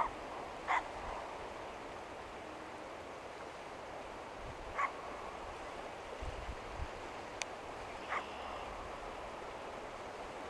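A bird giving four short calls a few seconds apart, over a steady outdoor hiss.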